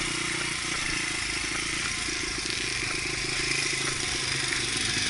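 Dirt bike engine running at a fairly steady pitch and level.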